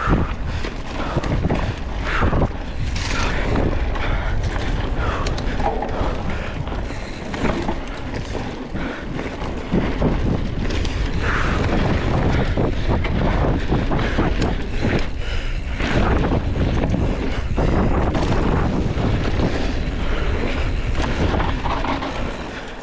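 Wind buffeting the microphone: a loud, steady rushing rumble with scattered knocks and crackles.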